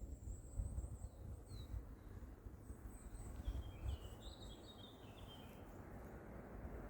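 Woodland birds singing: a thin high note held over the first few seconds and a cluster of short chirps in the middle, over a low rumbling background noise.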